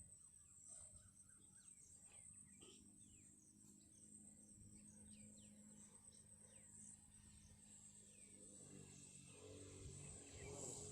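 Faint jungle ambience: a steady high-pitched insect drone with scattered short falling bird chirps.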